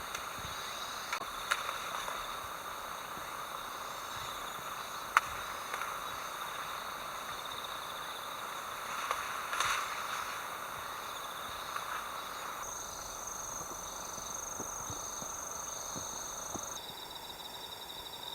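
Autumn crickets and other insects chirring steadily in several high-pitched layers, with a few sharp clicks, the loudest about five seconds in. The insect chorus changes abruptly twice, a new high tone appearing in the second half and dropping out near the end.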